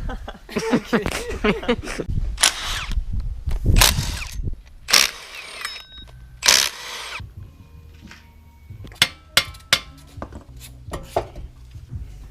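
Several short bursts of a power tool, such as a cordless drill or impact driver, working on fasteners during an engine removal, followed by a scatter of sharp clicks and knocks.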